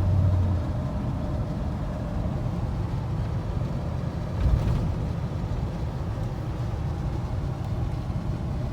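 1986 Chevrolet C10 pickup's small-block V8 engine and road noise, heard from inside the cab while driving. A steady low hum that eases off within the first second, with a brief louder bump about four and a half seconds in.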